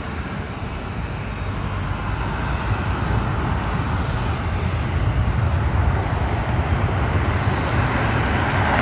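Jet airliner's engine noise, a steady rushing rumble that grows steadily louder as the plane approaches.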